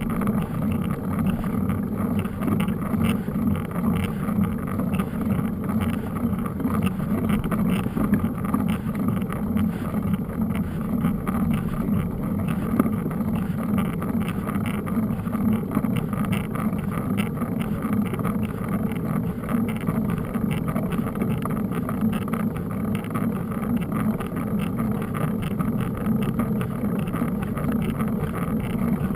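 Steady riding noise of a mountain bike: wind buffeting the microphone over a low rumble, with rapid rattling and clicking from riding over rough ground.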